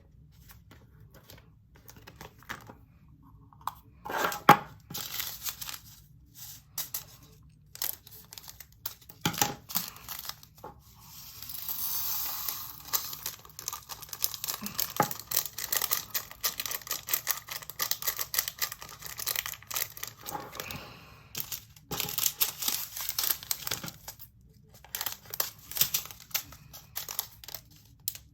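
Small plastic bags of resin diamond-painting drills crinkling and tearing as they are handled, with drills pouring and rattling into plastic storage containers. There is a longer steady pour about eleven to thirteen seconds in.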